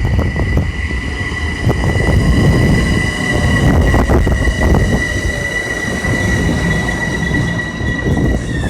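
Metro-North Hudson Line commuter train moving through the station, its wheels rumbling on the rails with sharp clacks now and then, under a steady high-pitched whine.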